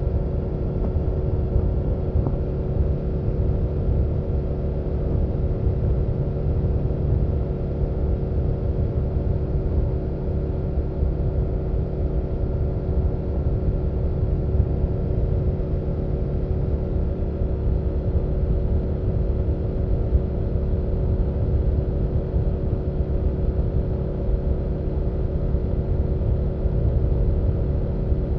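BMW F800GS parallel-twin engine running at a steady pitch with a dense low rumble, the motorcycle cruising at an even speed with no revving or gear changes.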